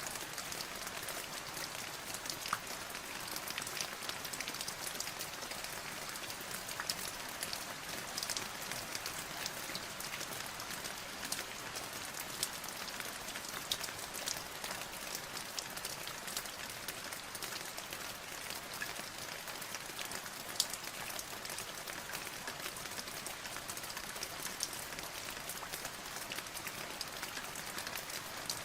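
Steady rain falling, a dense hiss of drops with many small individual drop ticks heard through it.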